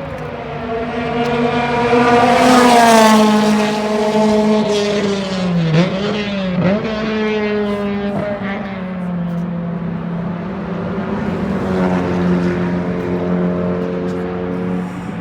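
Drag race car engine running steadily, getting louder about two to three seconds in, with two short dips in pitch near the middle before settling back to an even idle.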